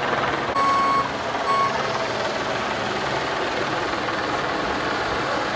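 Two electronic vehicle beeps, a long one about half a second in and a short one a second later, over a steady rumble of engines.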